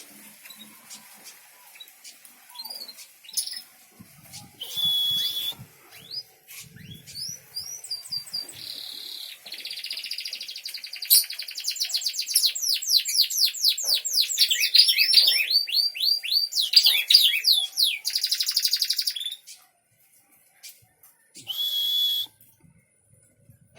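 Small songbird singing a long, varied song of chirps, whistled notes and rapid trills, densest and loudest in the middle and stopping about three-quarters of the way through, with one more short steady high note near the end.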